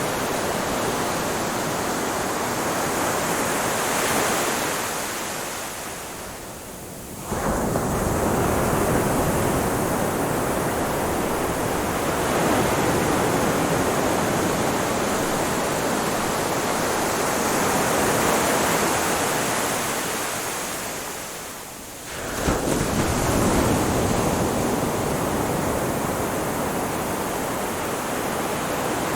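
Ocean surf washing in a continuous roar of noise. It ebbs to a short lull twice, then comes back sharply as a wave breaks, about seven seconds in and again about fifteen seconds later.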